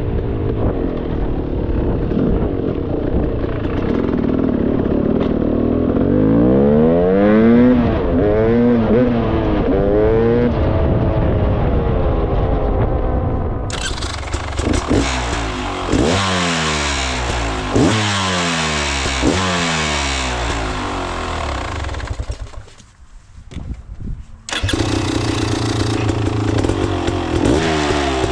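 2024 Beta 300RR Race Edition two-stroke dirt bike fitted with a Pro Circuit 304 silencer, being ridden: the exhaust note rises and falls again and again as the rider accelerates and lets off. Near the end it drops away sharply for about two seconds, then picks up again.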